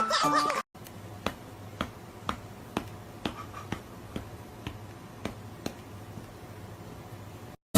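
A series of short, sharp snaps, unevenly spaced at about two a second, over a faint steady low hum. A snatch of music cuts off just before they begin.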